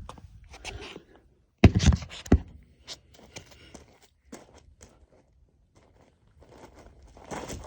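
Two hard knocks about two seconds in, half a second apart: the bird figurine being smashed down onto a hard surface, knocking off a small piece. Then quiet scuffing footsteps and small clicks.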